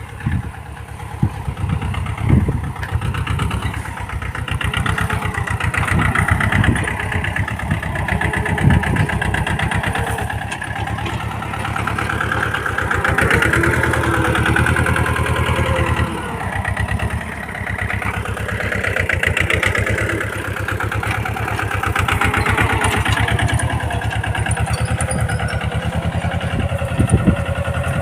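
Small 24 HP tractor's diesel engine running steadily while working the soil, its pitch and loudness rising and falling with the load. A few knocks sound in the first several seconds.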